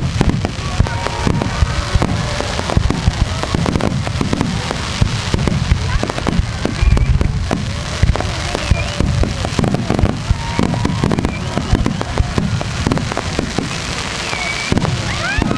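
A dense fireworks barrage: aerial shells bursting one on top of another with deep booms, over a near-continuous rattle of sharp cracks.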